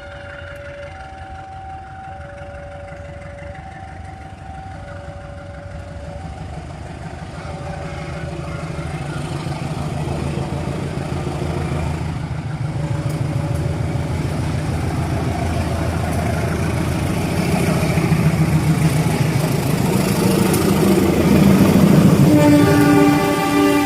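A two-note warning tone alternating at first, then a diesel train approaching with its engine noise building steadily louder, and a blast of the locomotive horn near the end.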